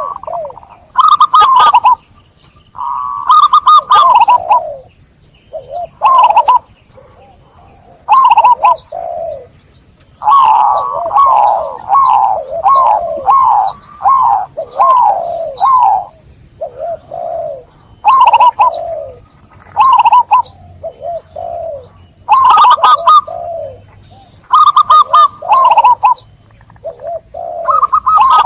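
Zebra dove (perkutut) cooing: loud, repeated phrases of short, rapid coo notes, each note dropping in pitch, with brief pauses between phrases.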